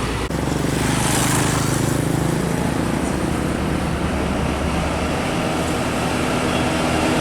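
Heavy diesel truck engine running at a steady pitch, with tyre and road traffic noise over it.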